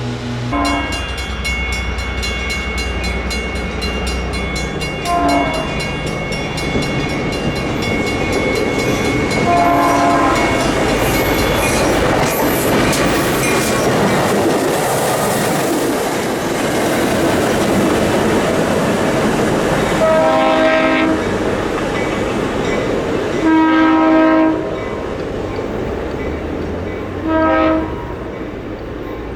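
Long Island Rail Road work train passing close by, its wheels clattering over the rail joints, while a multi-chime horn sounds five blasts, the longest about a second and a half. A bell rings rapidly through the first half.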